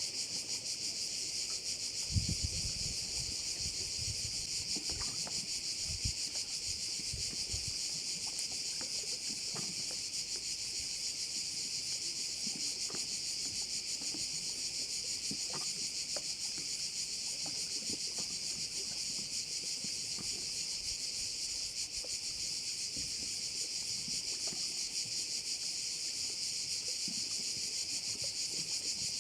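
Steady, dense chorus of cicadas buzzing without a break. A few brief low thumps come a few seconds in.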